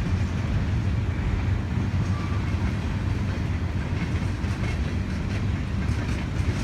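A train passing close by: a steady, heavy low rumble of rail cars rolling along the track.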